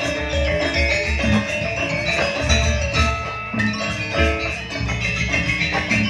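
Gamelan ensemble playing live dance music: a dense run of bright metallophone notes over a steady low beat.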